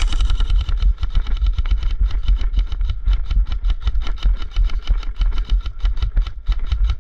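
Electric airsoft rifle firing a long full-auto burst, about eight shots a second, with the steady whine of its gearbox motor underneath.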